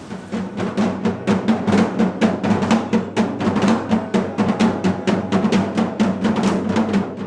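Rapid, even drumming, many strokes a second on a low-pitched drum, starting suddenly.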